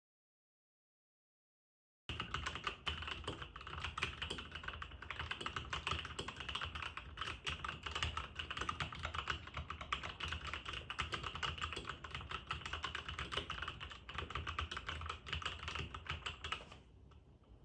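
Jiyoulang K96 keyboard being typed on fast and without pause, a dense run of key clicks. It starts about two seconds in after dead silence and stops shortly before the end.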